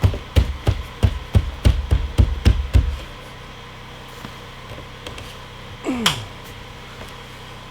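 Quick run of hammer blows, about three to four a second, stopping about three seconds in. Near six seconds comes one short sound that falls in pitch.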